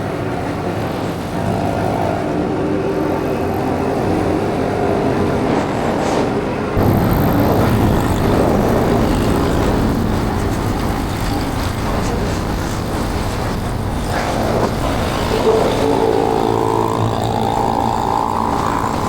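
Motorbike engine running while riding, with wind and road noise on the microphone. The noise steps up suddenly about seven seconds in, and an engine tone rises in pitch near the end as the bike speeds up.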